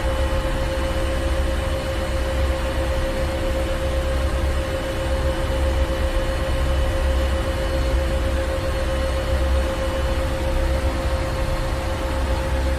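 Ship engine room: heavy machinery running steadily with a deep low rumble, a constant hum and a wash of mechanical hiss.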